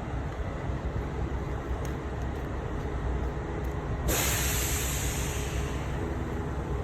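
A steady low engine rumble, with a sudden loud hiss of air about four seconds in that fades away over a couple of seconds.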